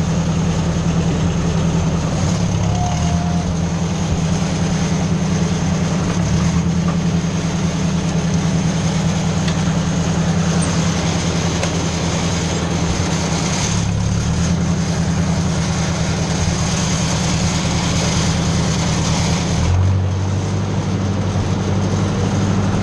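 Ford 600 tractor engine running steadily under the driver's seat, with its note changing and dropping lower about twenty seconds in.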